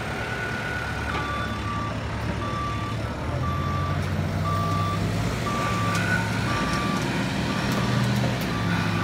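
Truck reversing with its backup alarm beeping about once a second, its engine running underneath and growing louder about three seconds in.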